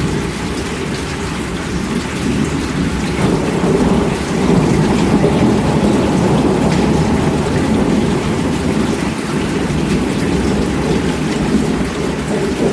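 Heavy rain falling steadily, with a deep rumble of thunder underneath that swells a little about four seconds in.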